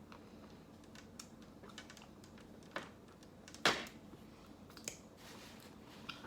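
Close-up eating sounds from spooning and eating ice cream: scattered soft clicks and taps, with one louder knock a little past halfway.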